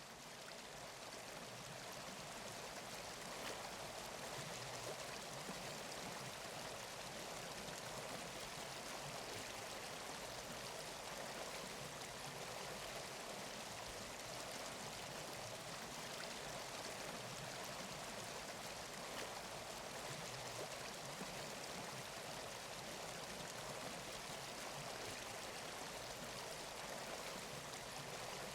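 Steady rushing of running water, like a stream, growing louder over the first few seconds and then holding even.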